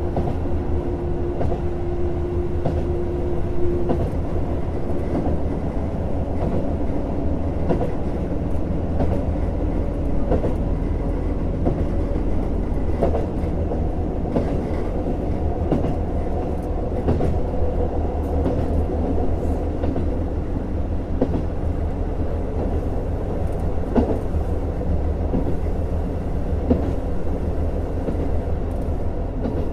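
JR Hokkaido KiHa 150 series diesel railcar running, heard from on board: a steady diesel drone with the wheels clicking over rail joints now and then. A steady whine in the first few seconds fades out.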